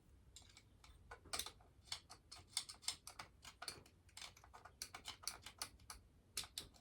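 Light, irregular clicks and taps of hand tools and small metal parts being handled during engine work, several a second with a few sharper knocks.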